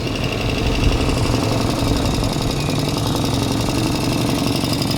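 A vehicle engine idling steadily, with an even pulsing beat.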